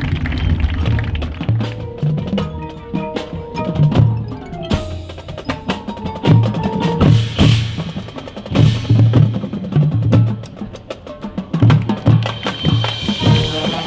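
Marching band percussion section playing: snare and bass drums hitting in rhythm under pitched mallet-keyboard notes, with cymbals sounding twice around the middle.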